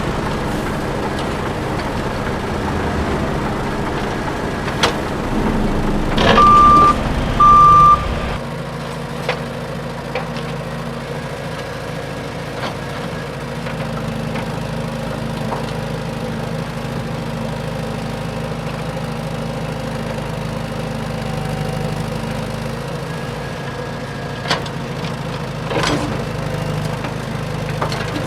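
Radio-controlled dump truck running with a steady mechanical hum, broken by two short, loud beeps about six and a half seconds in. A few sharp clicks come from the truck's workings.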